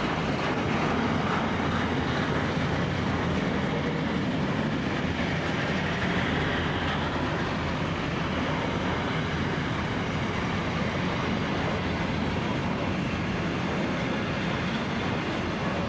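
Container wagons of a long freight train rolling past, a steady rumble and rattle of steel wheels on the rails.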